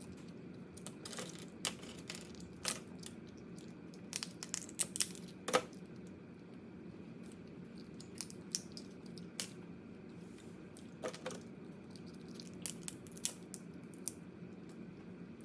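Crab shell cracking and being torn apart and chewed, a run of irregular sharp cracks and crunches that come thickest about four to six seconds in and again near the end.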